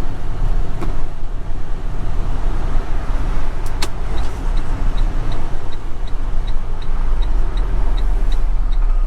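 Semi truck's diesel engine running with a steady low rumble heard from the cab. About halfway in, a quick, regular ticking of about three ticks a second starts, like a turn-signal indicator.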